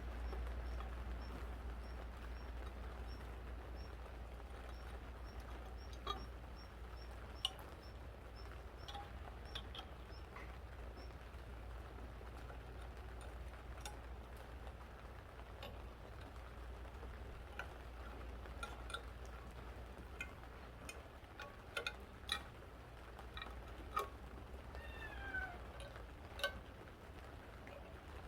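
Scattered light clicks and taps over a faint, steady low hum, with a cat meowing near the end.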